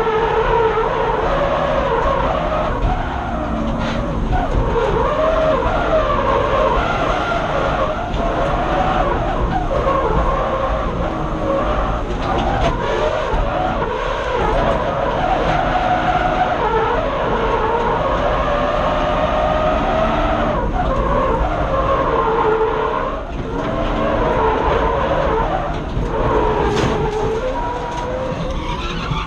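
Stock BMW M50B25 non-VANOS 2.5-litre straight-six at high revs through a drift, its note rising and falling with the throttle, mixed with tyre squeal, heard from inside the car. The level dips briefly about three quarters of the way through.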